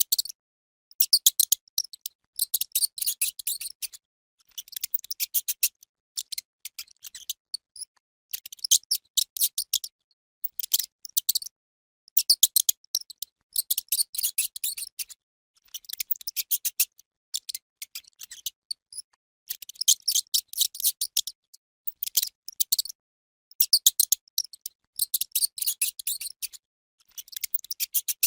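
Mouse squeaking: quick trains of very high, short squeaks in bursts of a second or two, separated by brief pauses.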